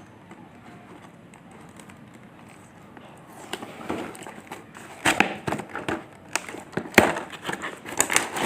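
Drone box being opened and its contents handled: after a quiet first few seconds, a run of rustling with many sharp clicks and knocks.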